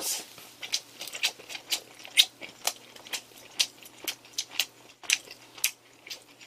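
A person chewing a bite of soft bread filled with a tteokgalbi (seasoned grilled short-rib) patty, close to the microphone: irregular wet mouth clicks and smacks, two or three a second.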